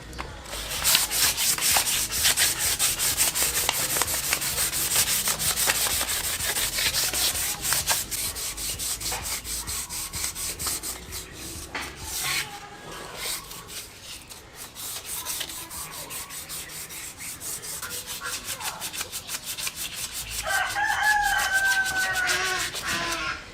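Sandpaper rubbed by hand over a steel motorcycle frame coated with rust converter, in rapid back-and-forth strokes. A rooster crows near the end.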